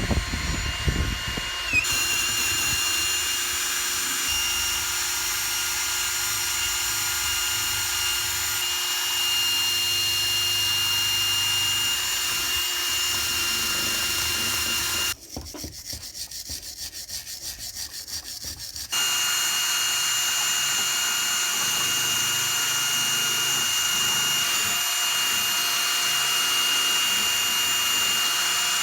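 Power tool with a wire brush running steadily with a high whine, scouring rust off a cast-metal weight. Past the middle it drops quieter for a few seconds, with a fast ticking, then runs at full level again.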